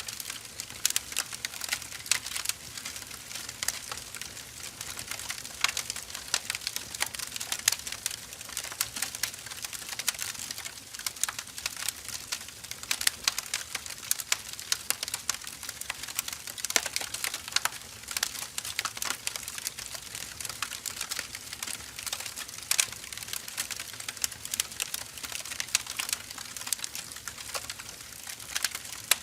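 Firewood burning in an open fire, crackling steadily with a dense stream of sharp snaps and pops.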